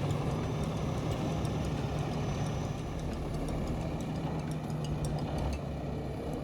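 A vehicle engine running steadily at idle, with faint light ticks over the hum.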